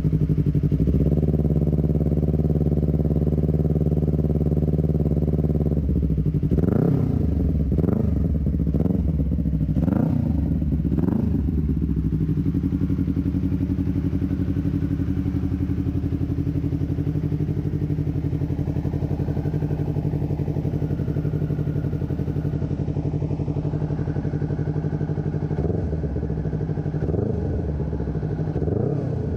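Honda CBR250RR's parallel-twin engine through a Scorpion RP1GP full-system aftermarket exhaust. It is held at raised revs for a few seconds, then blipped quickly about five times, and settles to a steady idle. More throttle blips come near the end.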